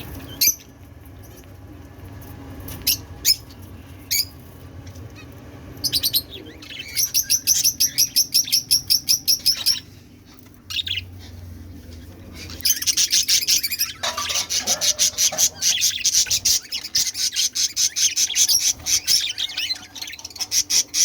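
Caged pet birds chirping. A few sharp single chirps come first, then a fast run of high repeated chirps about seven seconds in, and dense, rapid chirping through the last eight seconds or so.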